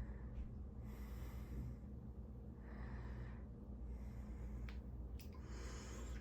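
Soft breaths close to the microphone, three airy puffs about two seconds apart, with a couple of faint clicks near the end over a low steady hum.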